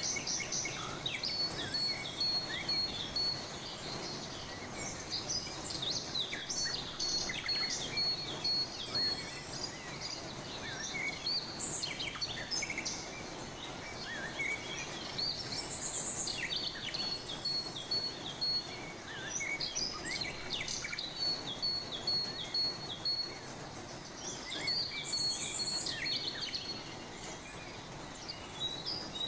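Birds chirping and calling in the background: many short high chirps and repeated runs of a rapid trill of evenly spaced high notes, over a steady background hiss.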